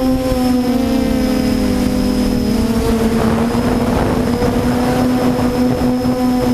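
QAV400 quadcopter's electric motors and propellers whining in flight, the pitch dipping slightly and then settling as the throttle changes, over a rushing wind rumble. A burst of hissing noise rises about three seconds in.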